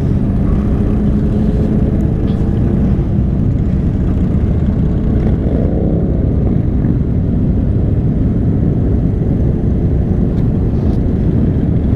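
Motorcycle engines running in a group ride, heard from a moving bike under heavy wind noise on the microphone. A steady engine note fades after about three seconds, and an engine revs up and back down briefly about six seconds in.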